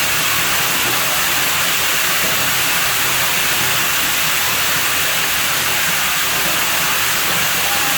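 Water at a pool villa's pool running and splashing steadily: an even, unbroken rushing hiss with no change in level.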